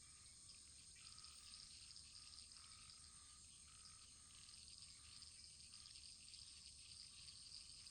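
Faint wood fire burning in a fireplace: a steady soft hiss with many small, quick crackles.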